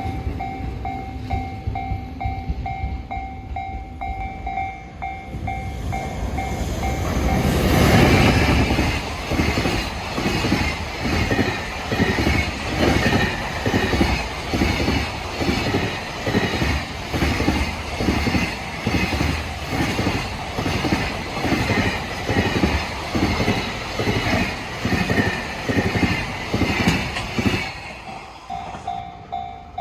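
Japanese level-crossing warning bell ringing with a steady repeating clang, then a train passes close by from about 8 seconds in, its wheels clacking rhythmically over the rail joints for about 20 seconds. The bell is heard again as the train clears, near the end.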